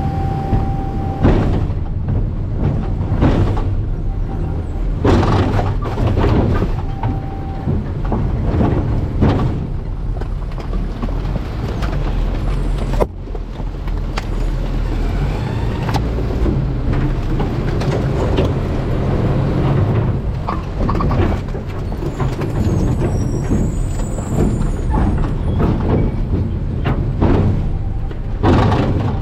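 Garbage truck running steadily with a deep rumble, with loud bangs and crunches every few seconds as trash is dumped and worked in the hopper.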